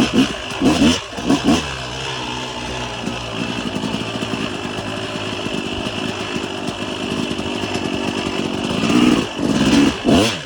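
Dirt bike engine blipping the throttle in quick rises and falls, then held at a steady drone for several seconds, then revving up and down again in short pulses near the end.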